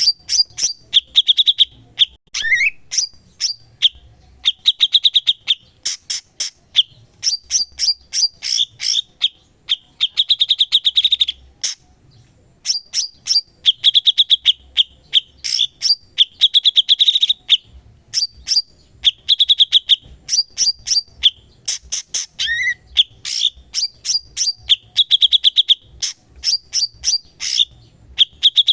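A caged cucak cungkok songbird in full, continuous song: short rapid trills and chattering phrases, a new one every second or two, with a quick rising note twice.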